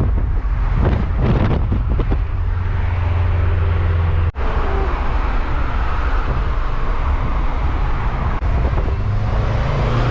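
A car being driven: a steady low rumble of engine and road noise, with a momentary break about four seconds in.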